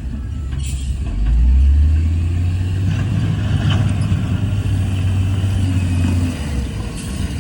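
Heavy diesel engine of earthmoving equipment running with a deep, steady drone that gets louder about a second in. Faint clanks and scrapes come through now and then over it.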